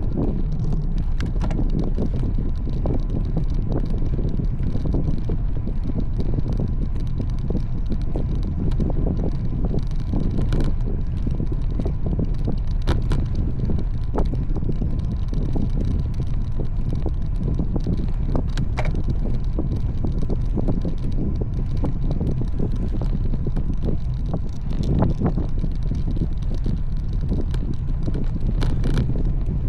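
Steady wind rush buffeting the microphone of a camera on a moving road bike, with scattered light clicks and knocks from the ride.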